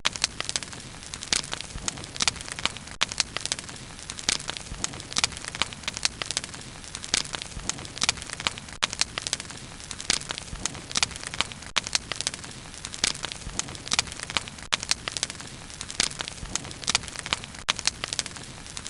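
Bonfire burning: wood crackling and popping in quick irregular snaps over a steady hiss.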